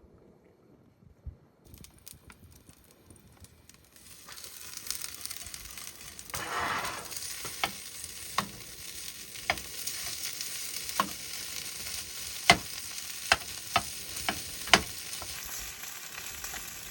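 Leftover pasta alla vodka sizzling in a pan as it heats. The sizzle starts about four seconds in and builds, with a louder swell a couple of seconds later and sharp clicks every second or so.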